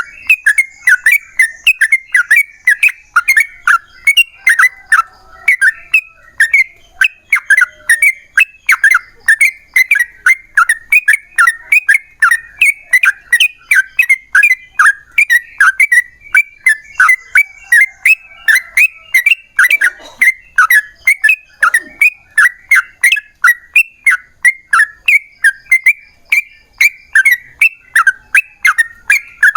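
Yellow-vented bulbul (trucukan) calling in a long unbroken run of short, bright chattering notes, about three a second, in the rapid 'ropel' style used as a lure to set other trucukan singing.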